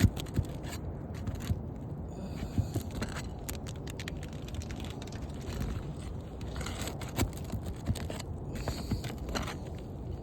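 Asphalt roof shingles being pried and scraped loose, with sharp clicks and several crackling, scraping stretches over a steady low rumble of wind on the microphone.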